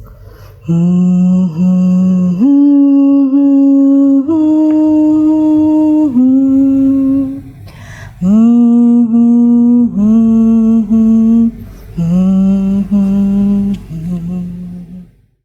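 A person humming a slow tune of long held notes in three phrases, stopping shortly before the end.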